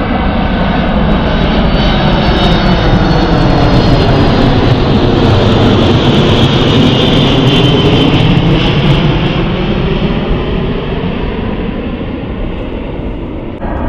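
Jet airliner passing close by, its engine noise swelling to a peak over several seconds and then fading away, the pitch of its engine tones shifting as it goes past.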